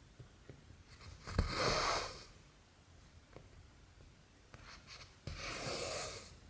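Cotton embroidery thread pulled through cross-stitch fabric, two rasping swishes of under a second each, about a second in and again about five seconds in, with a few faint ticks between.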